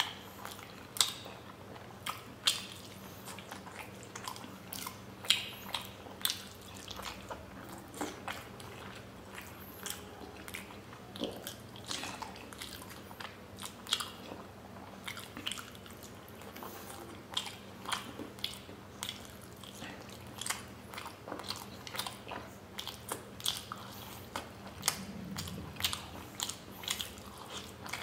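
Close-miked mouth sounds of a man chewing and biting soft steamed paneer momos dipped in chili chutney: irregular wet smacks and clicks, one to three a second, over a faint steady low hum.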